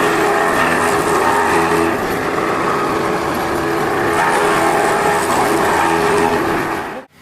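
A motor running steadily with a pitched whine, cutting off abruptly near the end.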